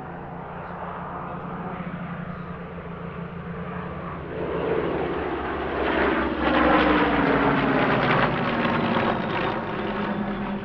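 Supermarine Spitfire fighters' Rolls-Royce V12 piston engines growing louder as they run in on a low pass. The engine note drops steadily in pitch as they go by, loudest a little past the middle.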